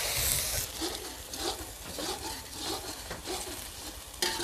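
Ground spice paste frying in oil in a metal wok as it is sautéed until fragrant. A loud sizzle stops about half a second in, then quieter sizzling under a metal spoon stirring and scraping the pan, about three strokes a second.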